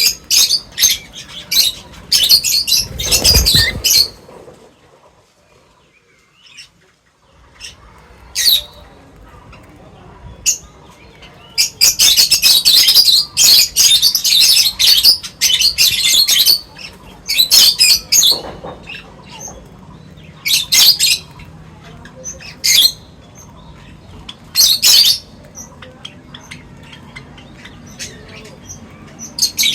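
Small birds chirping and squawking in quick, repeated bursts, with a dense run of chirping in the middle and a short lull early on. A low rustle, like a flutter of wings, comes about three seconds in.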